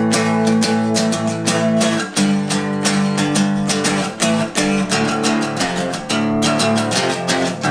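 Acoustic guitar strummed in a steady rhythm, the chords changing every couple of seconds, in an instrumental break of an unplugged country-style song.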